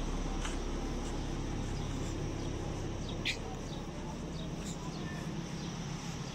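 Outdoor background of a steady low hum, with a few short bird chirps; the sharpest chirp comes about three seconds in.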